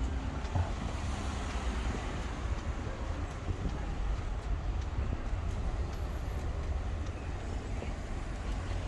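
Street traffic: the steady low rumble of a large vehicle passing.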